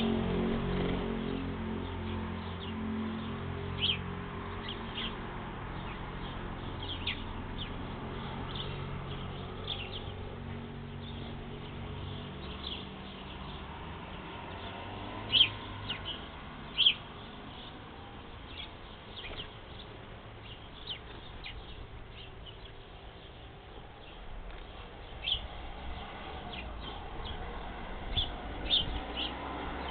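Small birds chirping: short, scattered high chirps throughout, with a few louder ones near the middle and near the end. A low hum under the first several seconds fades away.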